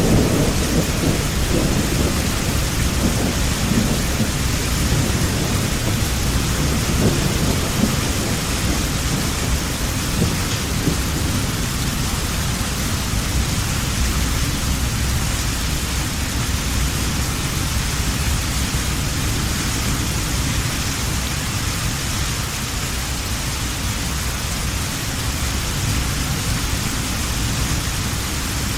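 Heavy rain falling steadily with a rumble of thunder. The rumble is strongest in roughly the first ten seconds, then fades away under the even hiss of the rain.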